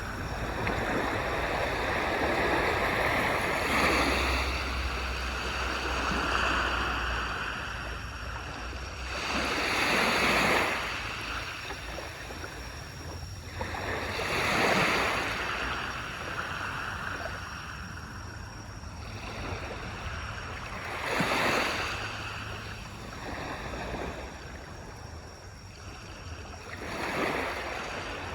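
Waves breaking on a shore: five swells of surf, one about every six seconds, each rising to a hiss and washing back, with a steady wash between.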